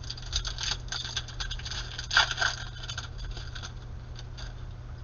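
Trading card pack handling: a plastic wrapper crinkling and cards rustling, with the loudest crackle about two seconds in.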